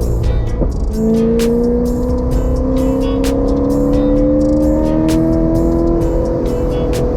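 Car engine accelerating: its note breaks off briefly about a second in, comes back lower and climbs steadily, like a pull through the next gear. Background music with a steady beat plays over it.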